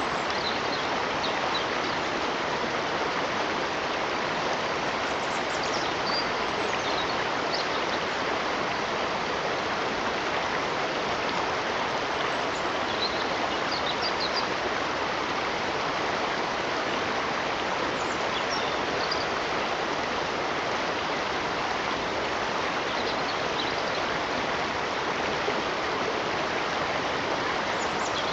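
Steady rush of a flowing stream, with a few faint high chirps now and then.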